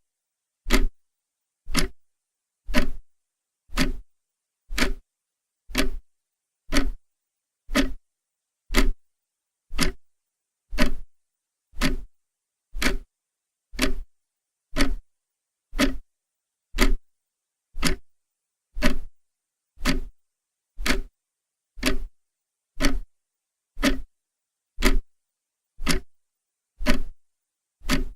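A clock ticking steadily, one sharp tick about every second with silence between the ticks.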